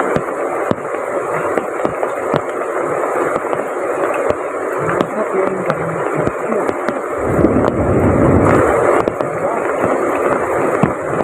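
Steady rush of heavy rain and river water, with scattered sharp ticks of drops striking close by. A louder low rumble swells for about two seconds past the middle.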